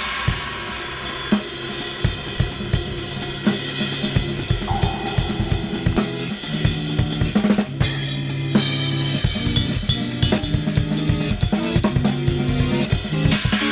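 Acoustic drum kit played freely, with dense kick, snare and cymbal hits, layered over sustained low pitched tones.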